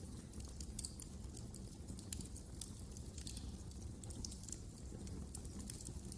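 Fireplace fire crackling: frequent irregular sharp snaps and pops over a steady low rumble.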